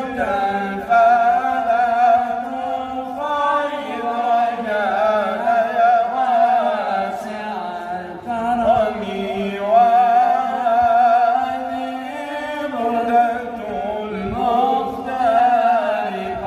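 Male voice chanting an Arabic devotional ode (inshad) in long, ornamented melismatic phrases with heavy vibrato, over a steady low held note.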